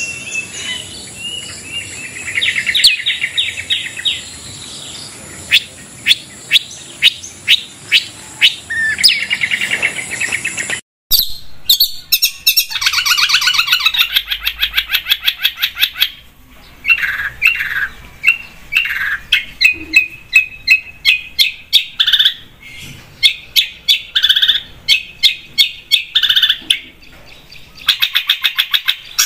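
Long-tailed shrike (cendet) singing a fast, varied song of sharp chattering notes, trills and repeated calls. About 11 s in the song breaks off for a moment and a different recording begins; before the break a steady high hiss runs under the song.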